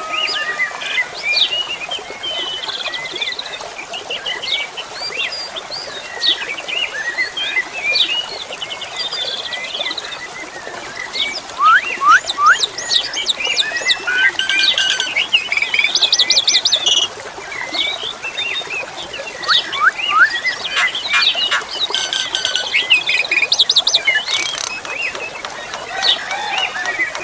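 Jalak suren (pied starling) singing a long, varied song of chirps, whistles and quick trills, busiest in the second half, over a faint steady hiss of flowing water.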